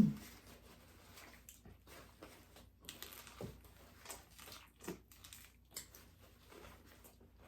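Faint, scattered crunches and crackles of crispy chicken and bacon lettuce wraps being eaten.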